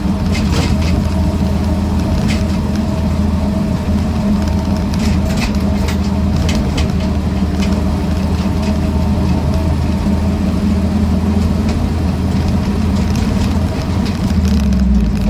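1966 Land Rover Series IIa 88-inch four-cylinder petrol engine running steadily under way, heard from inside the soft-top cab along with hum from its aggressive-tread 6.00-16 tyres and occasional clicks and rattles. Near the end the engine note dips, then picks up at a higher pitch.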